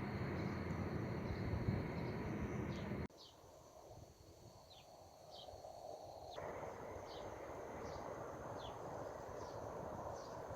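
Outdoor nature ambience: a steady high-pitched insect chorus with short, falling bird chirps repeating about once a second. A background hiss drops away suddenly about three seconds in and returns a few seconds later.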